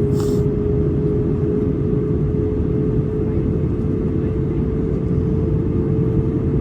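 Airbus A320 cabin noise in flight: a steady low rumble of engines and airflow, with one droning engine tone that edges very slightly up in pitch. A brief hiss comes right at the start.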